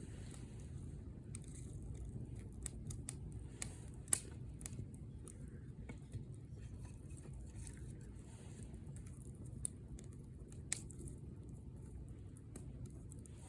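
Wood campfire crackling, with irregular sharp pops over a steady low rumble; the loudest pop comes about four seconds in, and two more stand out near the end.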